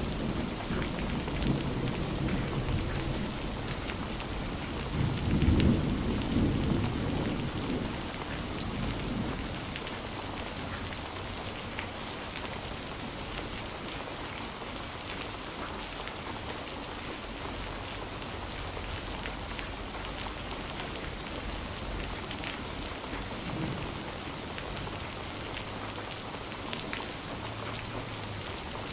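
Steady rain falling, with separate drops heard as small ticks, and a low roll of thunder in the first few seconds that swells to its loudest about six seconds in and dies away by about ten seconds.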